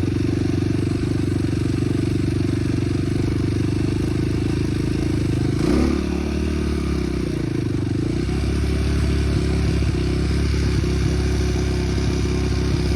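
Small off-road vehicle engine running steadily under way. About six seconds in, its pitch briefly dips and then climbs back.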